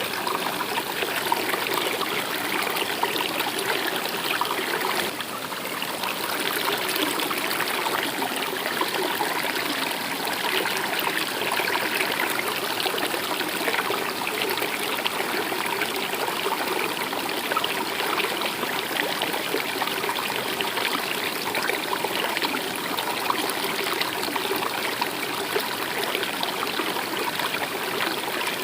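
Stream water running in a steady, even babble and trickle.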